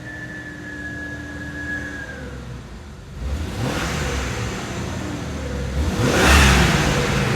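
2000 Jeep Wrangler engine running just after its first start, idling a little rough, then revved with throttle blips about three seconds in and again, loudest, around six seconds. It smooths out when given a little throttle.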